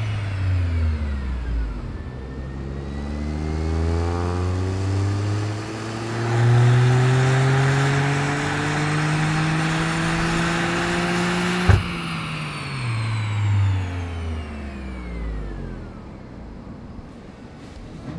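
Toyota GR Corolla's turbocharged 1.6-litre three-cylinder engine on a chassis dyno, on its stock intake for a baseline run. The revs wind down, then a wide-open-throttle pull climbs steadily for about ten seconds. A sharp crack comes at the top as the throttle is lifted, and the engine coasts back down.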